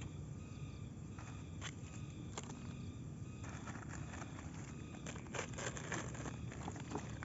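Outdoor ambience: a low steady rumble with scattered light clicks and taps.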